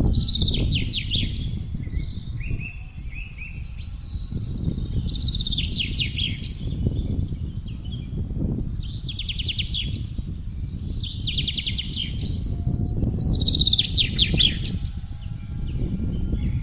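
Low, gusty wind blowing steadily, with a songbird repeating a short, fast trilled phrase that slurs downward, about once every three seconds.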